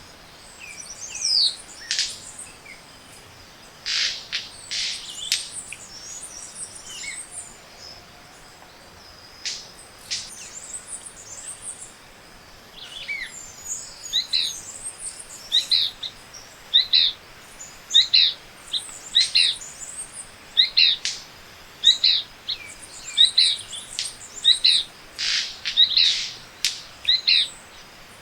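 Tropical forest morning bird chorus: various birds calling with short high notes, and from about halfway through one bird repeats the same short note about once a second. Several sharp snaps cut through, some in quick clusters.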